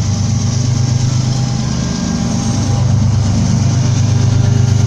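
A train's locomotive engine running steadily close by, a loud low hum that grows a little louder after about three seconds.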